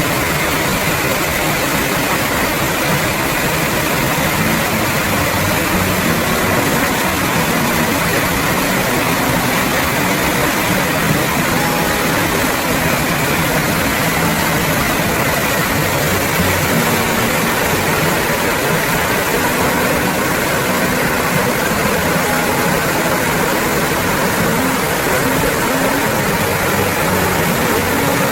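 Steady engine and road noise of a moving vehicle, unchanging throughout.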